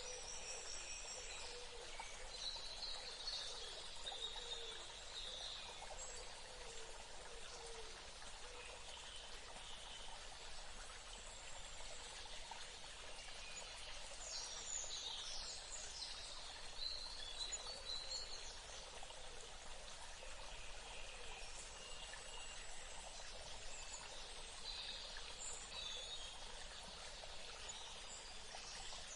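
Steady running water, like a trickling stream, with birds calling now and then over it, in a few clusters of short chirps.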